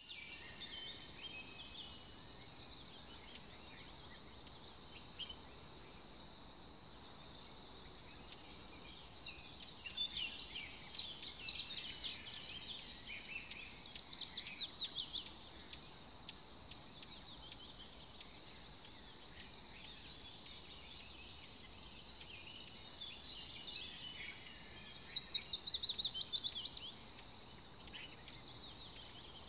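Birdsong over a steady faint background hiss: a long bout of rapid, repeated high chirps and falling trills about a third of the way in, and a shorter bout later.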